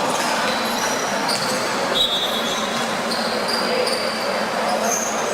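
Basketball game sounds: sneakers squeaking repeatedly on the court and a ball bouncing, over a steady murmur of voices in the gym.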